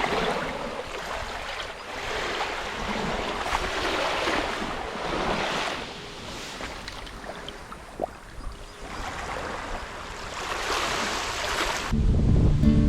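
Gusty typhoon wind rushing in waves that swell and die away every second or two, with wind buffeting the microphone. Music with a guitar comes in near the end.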